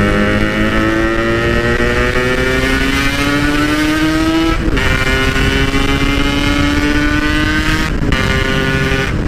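Yamaha RX-King two-stroke single-cylinder motorcycle engine accelerating hard, its pitch climbing steadily, with two quick upshifts about four and a half and eight seconds in, over wind rumble.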